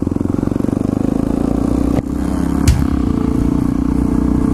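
Single-cylinder motorcycle engine running steadily at low revs, close by, with one sharp knock about two and a half seconds in.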